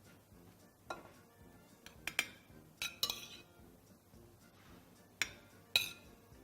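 Utensils clinking against a plate and dish about six times as vegetables are served onto it, the sharpest clinks near the middle and near the end, over faint background music.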